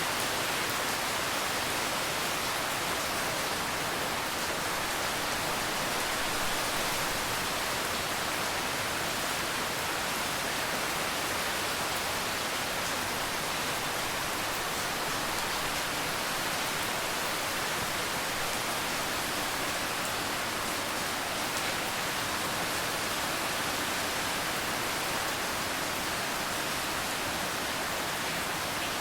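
Steady rain: an even, unbroken hiss of falling rain with no distinct drops standing out.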